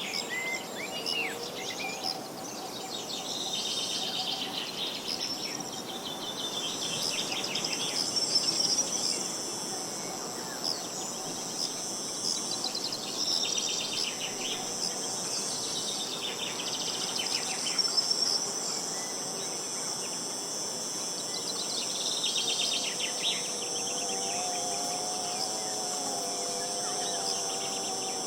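Insects trill steadily and high-pitched throughout, while birds sing short repeated phrases every few seconds over a light outdoor hiss. A lower, wavering call with several overtones comes in near the end.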